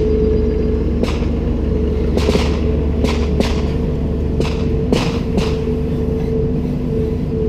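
Komatsu PC290-10 excavator's diesel engine running steadily under a constant whine, with sharp irregular knocks and clanks about once a second.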